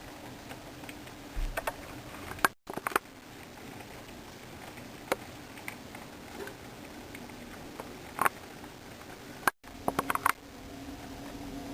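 Heavy rain heard through a window: a steady hiss with scattered sharp ticks of drops. The sound cuts out completely for an instant twice.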